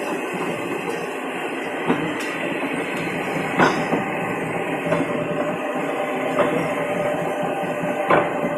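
Plate rolling machine running, a steady mechanical drone as it rolls a steel plate, with a sharp knock about every second and a half.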